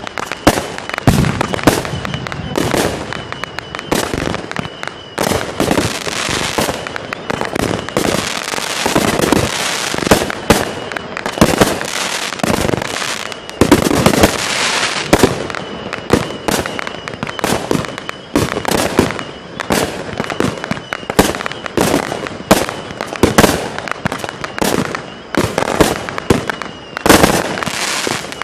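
A 35-shot fireworks cake firing its shots in quick succession: a steady run of launch thumps and bursting bangs, a couple a second, with no pause.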